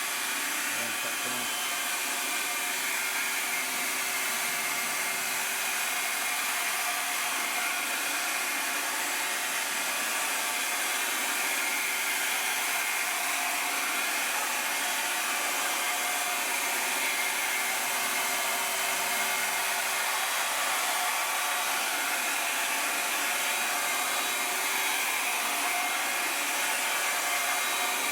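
Electric heat gun running steadily, blowing hot air with a constant whir to soften a vinyl wheel sticker onto a motorcycle rim.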